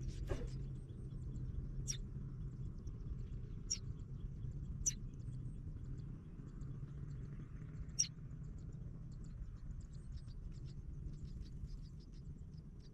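Nestling birds cheeping: short, high-pitched peeps, a few sharp single ones spaced a second or more apart, then a run of faint, quick cheeps near the end, over a steady low rumble.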